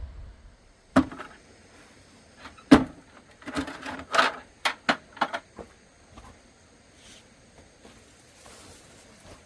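Sharp knocks and clatters of hard objects being handled: a single knock about a second in, a louder one near three seconds in, then a quick run of knocks over the next two seconds.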